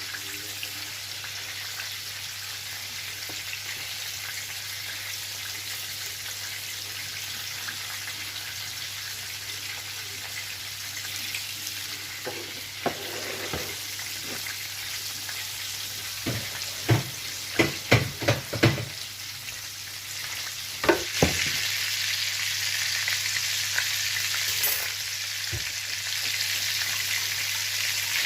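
Flour-coated sardines frying in oil in a pan, a steady sizzle. About two-thirds of the way through comes a quick run of sharp clicks, and the sizzle grows louder just after.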